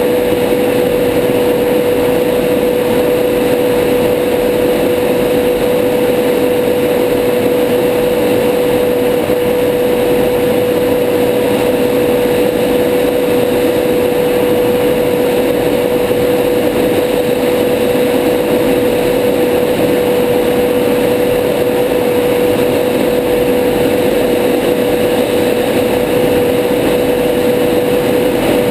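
Steady in-cockpit noise of a Tornado GR4 jet in low-level fast flight: an even rush of engine and airflow with a single steady mid-pitched tone held over it.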